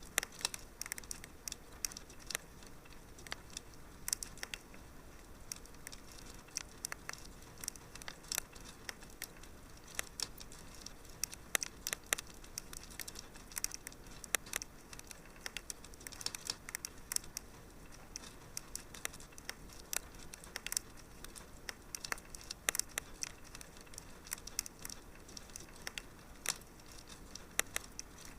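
Wood fire crackling in a fireplace: irregular sharp pops and snaps, clustered several a second at times, over a soft steady hiss.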